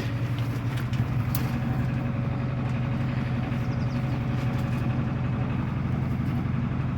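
Narrowboat engine idling steadily with a low, even throb.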